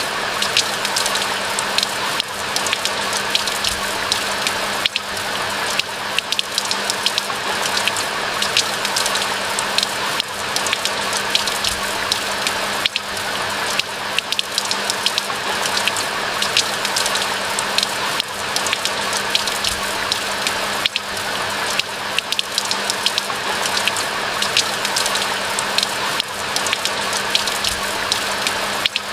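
Steady rain falling, with a dense patter of sharp individual drop ticks over a constant wash of rain noise.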